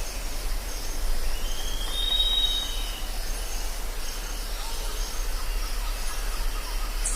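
Jungle ambience: a steady hiss of insects over a low hum, with faint repeated high chirps. About a second and a half in, a bird gives one long whistled call that rises and then holds.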